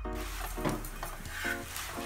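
Stuffed potato paratha sizzling in oil on a flat tawa griddle, with a metal spatula scraping and clicking under it as it is lifted and turned. Background music plays throughout.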